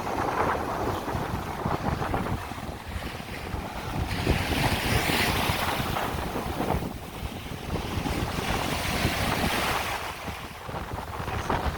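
Strong sea wind buffeting the microphone, a gusty rumble throughout, with surf washing on the shore; the hiss swells twice, about four and nine seconds in.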